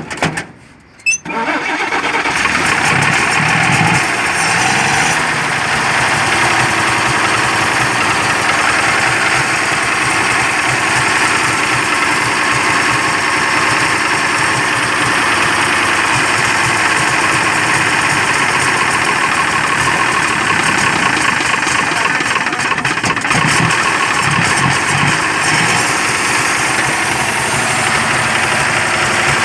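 1946 Chevrolet truck's 235 inline-six engine being started: a second or so of uneven cranking bursts, then it catches and runs steadily.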